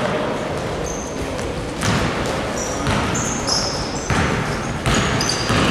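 Basketballs bouncing on a gym floor, a thud about once a second, with short high squeaks of shoes on the court in a large echoing hall.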